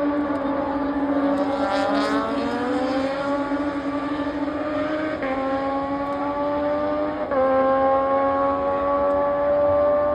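Racing motorcycle engines at high revs. Several tones climb in pitch and drop abruptly at upshifts about 5, 7 and 10 seconds in, as the bikes accelerate along the track.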